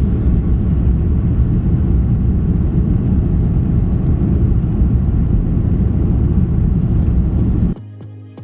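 Airbus A330-300's twin Rolls-Royce Trent 700 jet engines at full departure power, heard inside the cabin as a loud, steady low rumble. It cuts off abruptly near the end and quiet background music with a ticking beat takes over.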